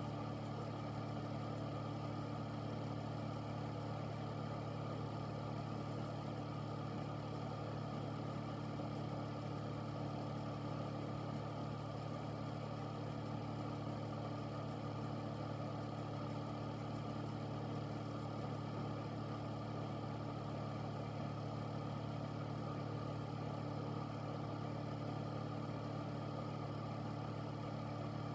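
Air filter (air purifier) running steadily: an even low hum with a rush of moving air.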